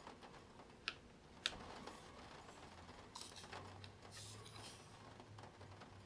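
Faint Spirograph drawing sounds: two sharp plastic clicks about a second in, then soft scratching of a pen on paper.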